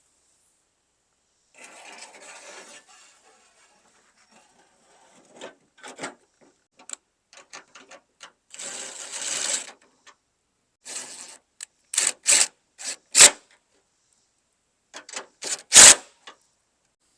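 Bolting a steel tailgate together: rattling and clicking of tools, bolts and sheet metal, a rasping burst of about a second near the middle, and a series of sharp metal knocks toward the end, the loudest about sixteen seconds in.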